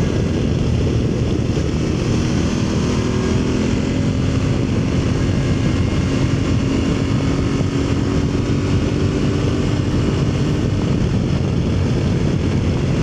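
Aprilia Tuareg motorcycle cruising at a steady speed: a constant engine drone under heavy wind and road rush.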